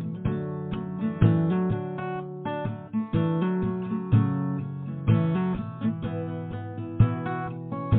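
Music: acoustic guitar playing an instrumental passage of plucked and strummed chords, with no voice.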